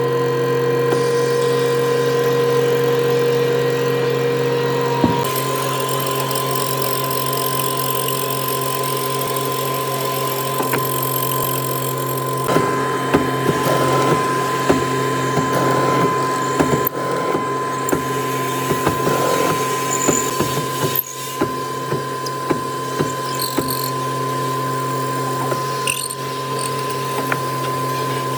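A woodworking power tool running steadily with a constant whine, its pitch shifting about five seconds in; from about twelve seconds on, irregular clicks and knocks of wood being worked sound over it.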